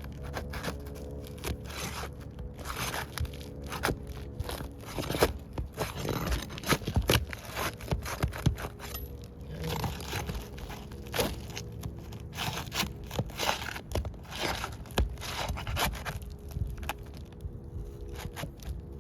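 Brittle roof shingle being pried up: irregular scraping, crackling and tearing as the shingle rips while it is lifted.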